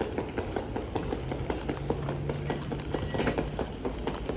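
Quick, irregular footsteps of people walking on a hard floor, several steps a second, over a low steady hum.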